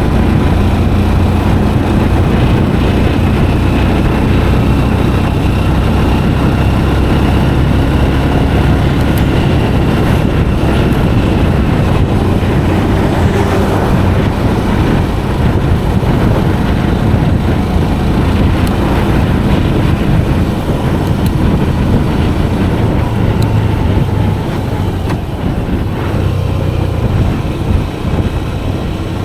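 Motorcycle engine running steadily on the move, with wind and road noise over it.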